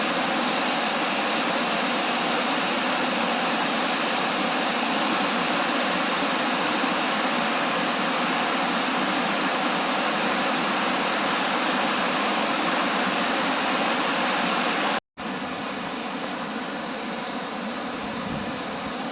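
Steady rush of water pouring over a waterfall. About 15 seconds in, the sound cuts out for a moment and comes back quieter.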